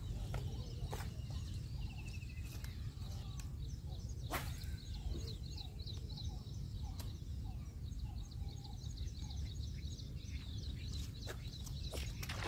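Birds calling around the water in many short chirps and trills, over a steady low rumble. A few sharp clicks come through, the sharpest about four seconds in.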